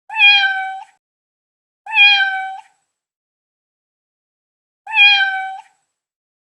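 Domestic cat meowing three times, each meow short and level in pitch, the three calls identical as if one recording repeated.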